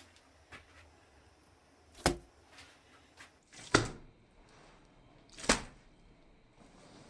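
Three sharp knocks or blows, each about a second and a half apart.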